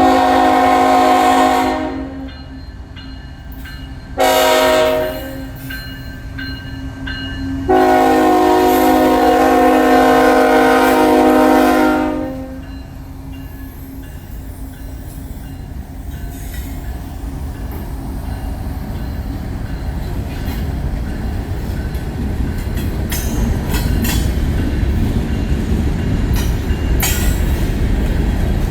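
Freight locomotive air horn sounding a chord in three blasts: a long one, a short one about four seconds in, and a long one from about eight to twelve seconds. After it, the low rumble of two diesel locomotives under throttle grows steadily louder as the train approaches.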